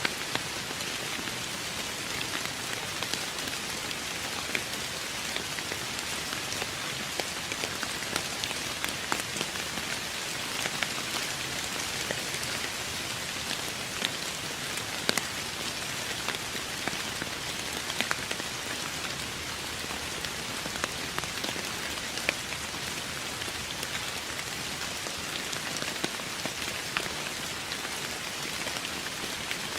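Steady rain falling, an even hiss with many individual drops pattering sharply on a hard surface, with no thunder.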